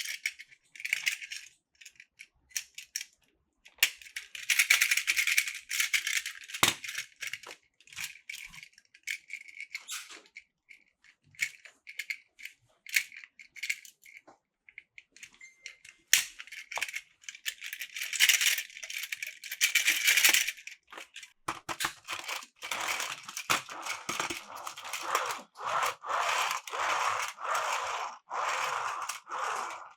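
Hard plastic toy-train pieces rattling and clacking in irregular bursts. About two-thirds through, this gives way to a denser, lower, steadily pulsing clatter.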